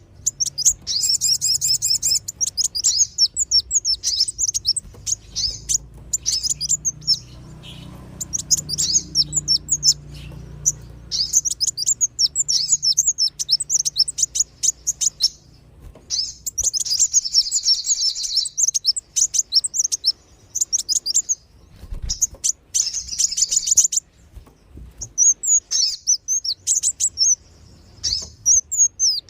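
Sunbirds calling in bursts of rapid, high-pitched, squeaky chirps separated by short pauses, a lure recording of kolibri wulung and sogon sunbirds used to draw wild birds in.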